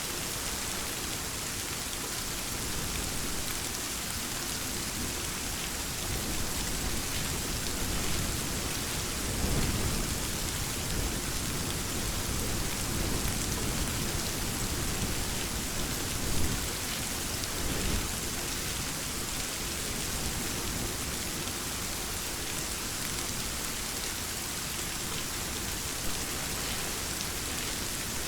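Steady rain falling, with low rumbles of thunder swelling about a third of the way in and again around the middle.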